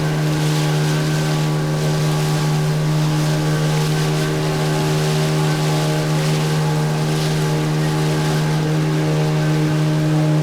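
Motorboat engine running at a steady, unchanging pitch while underway, with the rush of wind and water over it.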